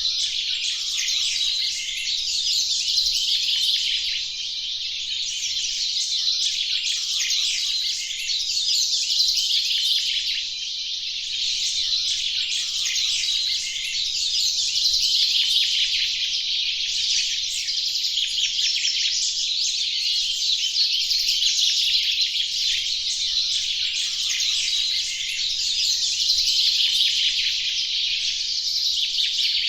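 Many layered copies of a birdsong recording sounding at once, merging into a dense, continuous wash of high chirping with no single song standing out. The wash swells and eases about every six seconds.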